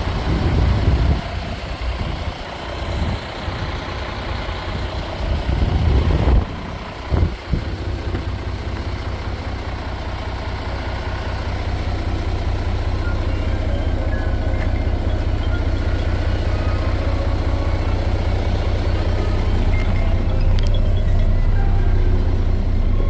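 MAN TGS 18.470 truck's 12.4-litre straight-six diesel engine running. It is uneven for the first several seconds, with two short louder bursts around six and seven seconds in, then settles into a steady low idle.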